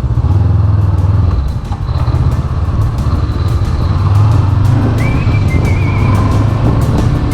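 Honda CB500X parallel-twin engine running steadily under way, with an even, rapid pulse. About five seconds in, thin wavering high tones join it, like a melody or whistle.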